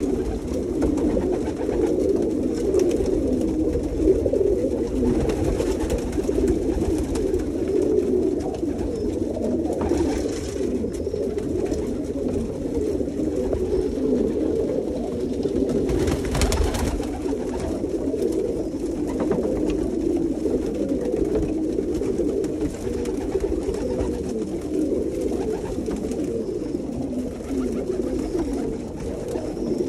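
Many domestic pigeons cooing continuously together in an enclosed loft, a dense overlapping murmur of coos. Two short rushing noises stand out about ten and sixteen seconds in.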